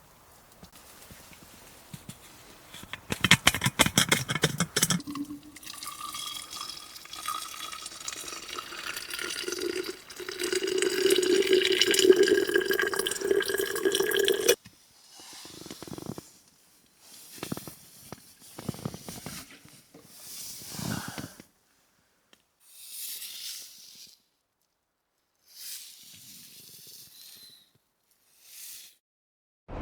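Water poured into a container, its pitch rising slowly as the container fills; it cuts off suddenly, and several short separate hissing snippets follow.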